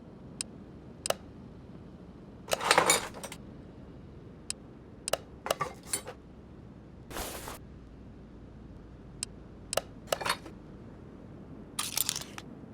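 Metal tools and parts clinking and clattering while being handled: scattered single clicks and a few short rattling bursts, the loudest about three seconds in.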